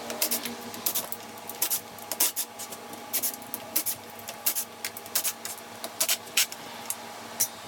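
Hand tools working on an engine's intake manifold: a run of irregular sharp metallic clicks and ticks, some in quick clusters, as the intake is unbolted.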